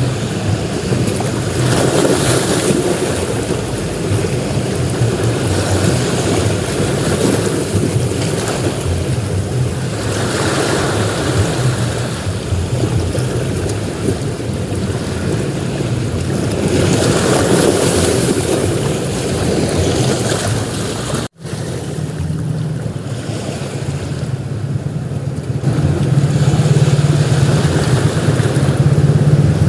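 Sea surf on a beach: waves break and wash in, swelling every several seconds over a steady rush of water and wind. The sound cuts out for an instant about two-thirds through. Near the end a steady low rumble grows louder.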